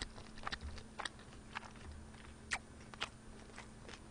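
Close-miked chewing of a mouthful of spicy stir-fried ramen noodles: faint, irregular wet mouth clicks and smacks, a few louder than the rest. A faint steady electrical hum runs underneath.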